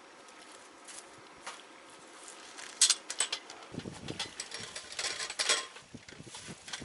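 Handling noise from pitching a tent: crinkling fabric rustles and scattered clicks, with a sharp crackle about three seconds in and another burst around five seconds. Wind buffets the microphone from about four seconds in.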